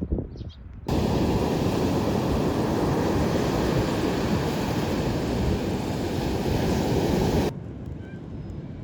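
Loud, steady rush of sea wind and surf on a beach, with wind buffeting the microphone. It starts abruptly about a second in and cuts off near the end.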